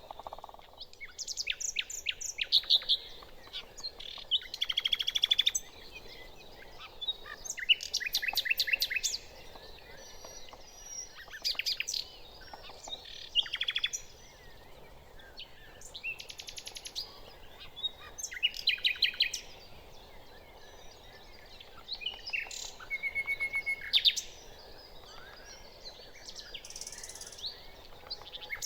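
Nightingale singing: a string of varied phrases, each a fast run of repeated notes or a trill, with short pauses between them every two to three seconds.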